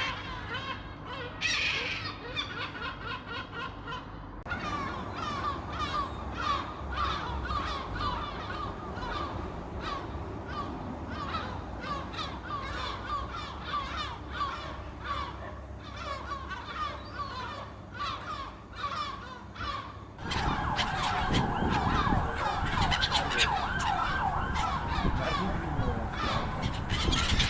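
A flock of seagulls calling over one another in a dense chorus of short, repeated cries. About twenty seconds in it grows louder and fuller.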